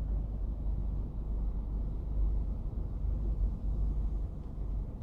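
Low, steady rumble of a car rolling slowly, engine and tyres heard from inside the cabin.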